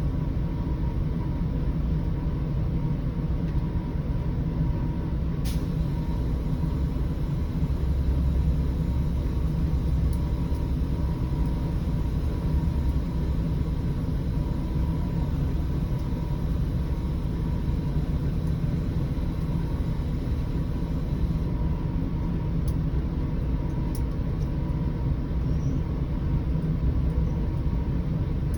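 Scania 113 bus's diesel engine running steadily while driving, a deep drone that swells slightly about a third of the way in, with a few brief clicks.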